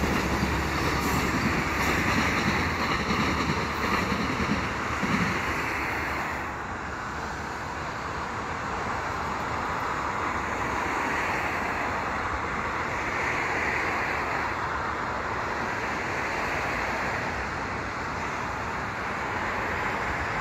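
Bilevel commuter train's wheels rumbling over the rails as the cars pass, fading about six seconds in. A steady hiss of background noise remains after it.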